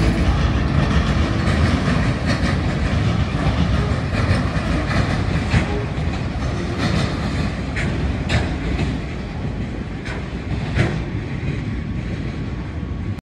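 A train rolling past, its wheels giving scattered clicks over the rails in a steady rumble that slowly fades. The sound cuts off abruptly near the end.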